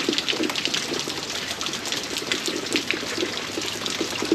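Heavy rain falling steadily, with dense, irregular close drops splashing.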